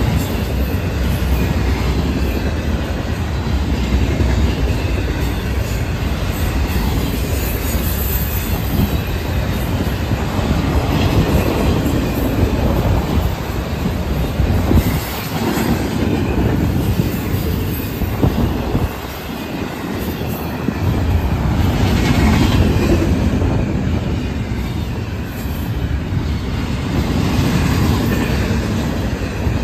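Freight cars of a passing train (autoracks, then double-stack container well cars) rolling by close up: a steady rumble of steel wheels on rail with repeated clacks over the rail joints. The sound dips briefly a little past the middle, then builds again.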